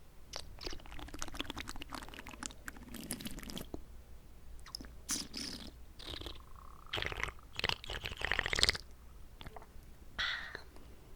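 Close-up wet mouth sounds: rapid clicks, smacks and swishing of saliva and water in the mouth, in irregular bursts with short pauses, the loudest burst about eight seconds in.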